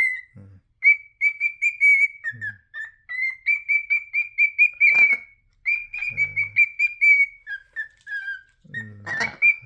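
Pet bird whistling a tune: a long run of short, clear notes, three or four a second, mostly at one pitch, dipping a little lower a few times.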